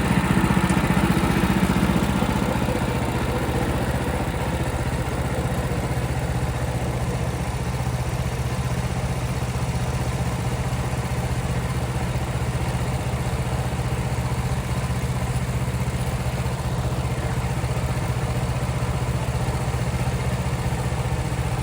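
Portable bandsaw mill's small gasoline engine running steadily. It is a little louder for the first couple of seconds, then settles to an even, lower run.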